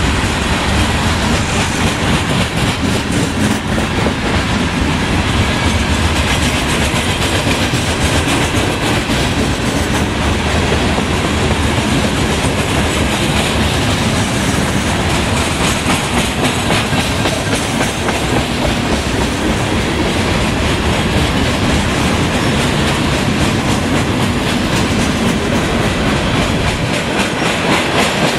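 Railroad cars of a passing train rolling by, a loud steady rush of wheel-on-rail noise with fine rapid clicking all through.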